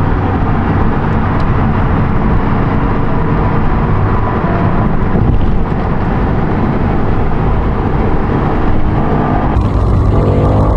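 Car engine running steadily while driving, with continuous road noise. Near the end the engine note rises as the car accelerates.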